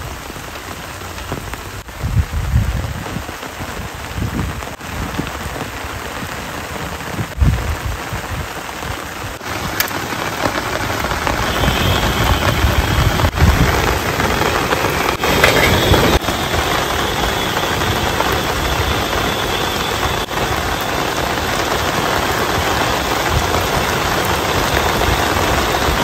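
Heavy rain falling and pattering on the ground, tent and camping gear, growing louder about halfway through, with a few low thumps in the first few seconds.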